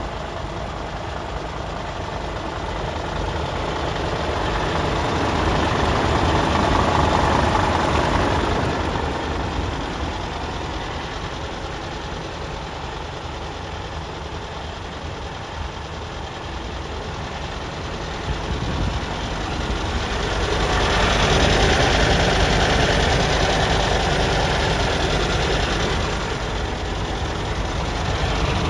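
Scania P360's five-cylinder diesel engine idling with a steady rumble, growing louder twice for a few seconds.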